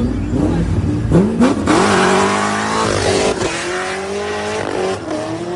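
Performance car engine revving hard under acceleration, its pitch climbing about a second in, holding, then climbing again.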